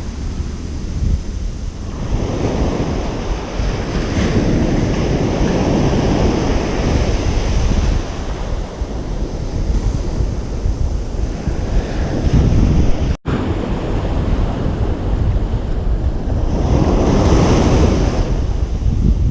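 Ocean surf washing onto a beach in rolling swells, with wind rumbling on the microphone underneath. The sound cuts out for a split second about two-thirds of the way in.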